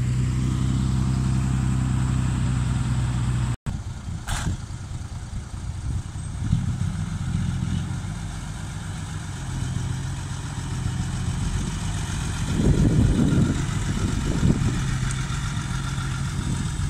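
Diesel engines of heavy earthmoving machinery running: steady at first, then after an abrupt break about three and a half seconds in, the engine sound rises and falls, swelling loudest two-thirds of the way through.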